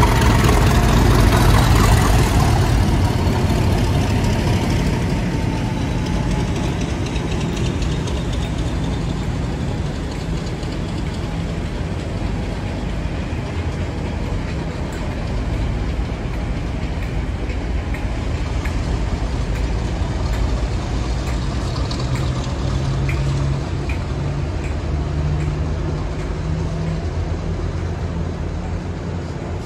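GBRf Class 50 diesel locomotive 50049 passing, its English Electric 16-cylinder engine loudest in the first few seconds. Then the steady rumble and wheel noise of the coaches and electric units it is hauling rolling by, with a few light clicks near the end.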